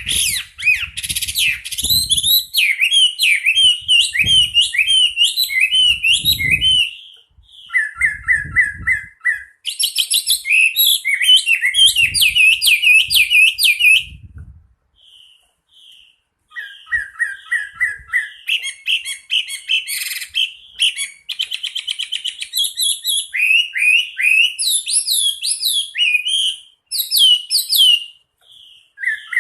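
Chinese hwamei singing: long phrases of rapid, varied whistled notes and repeated note series, broken by two short pauses.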